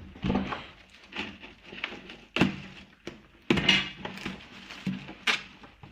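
Packaging in a box being handled: rustling, with a few sharp knocks, the loudest about two and a half, three and a half and five seconds in.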